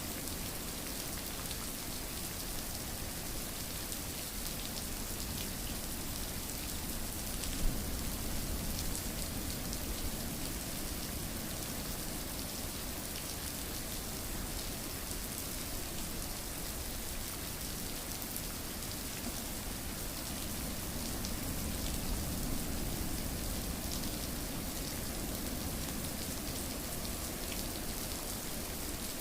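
Steady rain falling, a constant hiss with many small drop ticks, with one brief click about seven seconds in.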